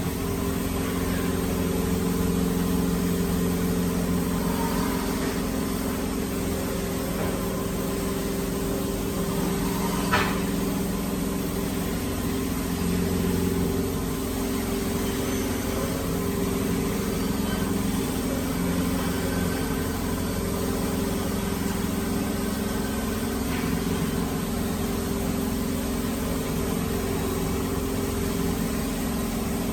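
A machine motor starts running and keeps a steady, even hum, with one sharp knock about ten seconds in.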